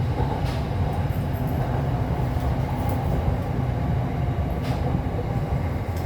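Steady low rumble inside the carriage of a Red Line electric commuter train on the move, with a few faint clicks.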